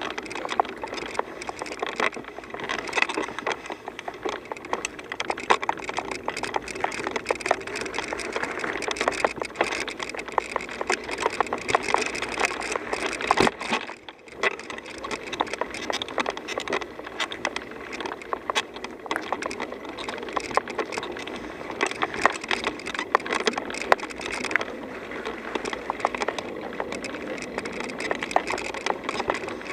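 Bicycle riding over a rough gravel and dirt trail: a steady crunch and rattle of tyres on loose stones and twigs. It dips briefly about halfway through.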